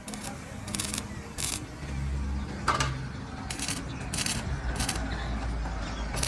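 A series of short scraping or clinking strokes at irregular spacing, about one a second, over a low steady hum.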